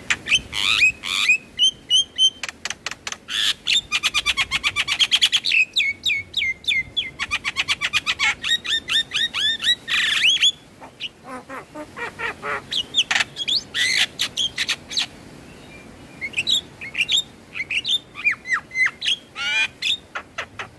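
Javan myna (jalak kebo) chattering song: fast trains of sharp clicking, rattling notes mixed with short whistled chirps. About halfway through it thins to scattered notes for a few seconds, then picks up again.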